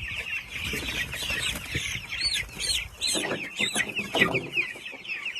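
A brood of three-week-old broiler chicks peeping continuously, many short high cheeps overlapping. Two louder, lower sounds stand out a little after the middle.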